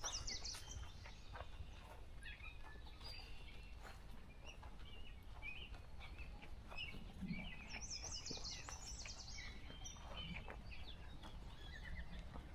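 Several songbirds singing and chirping together, with a quick high trill right at the start and another about eight seconds in, over a steady low rumble.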